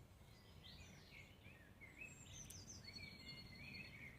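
Near silence with faint bird chirps and short warbling calls in the background.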